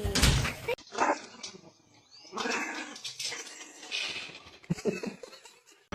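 A dog making several short vocal sounds, grumbles and whines, spaced out with brief pauses between them.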